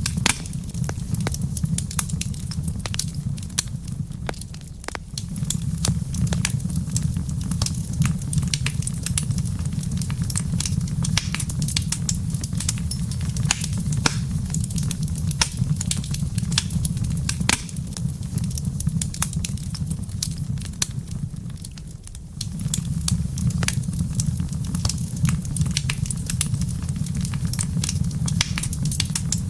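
Wood fire in a fireplace crackling, with many sharp pops and snaps over a steady low rumble of the burning. The rumble eases off briefly twice, once early and once about two-thirds through.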